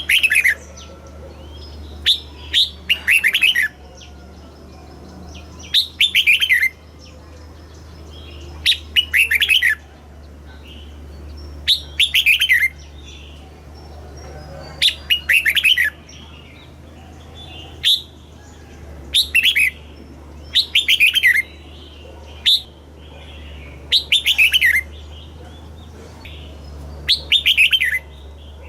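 Red-whiskered bulbul singing: loud, short phrases of quick downward-sweeping whistled notes, repeated about every two to three seconds, over a steady low hum.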